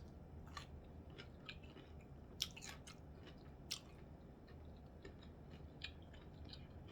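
A person chewing food with the mouth close to the microphone: faint, scattered wet mouth clicks, a few of them louder around the middle.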